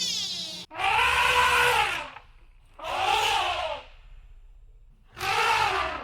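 A cat meowing three times: long drawn-out meows that rise and fall in pitch, about a second each, with short gaps between.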